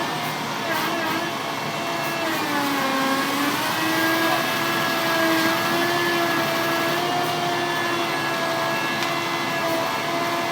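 Engine of a mast truck running to power a Woody 60 harvester head, a steady pitched machine sound whose pitch dips briefly about three seconds in and then comes back up.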